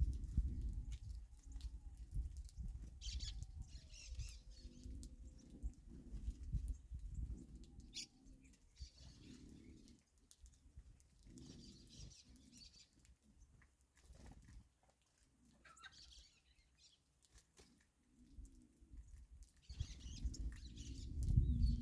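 Small birds chirping in short, scattered clusters, with low rumbling noise underneath that is loudest at the start and near the end. A faint thin whistle falls slowly in pitch about a second in.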